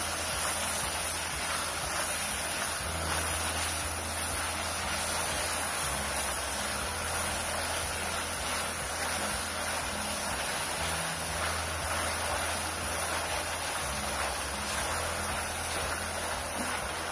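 Chicken pieces frying in a wok with a steady, even sizzle as they are stirred with a plastic spatula.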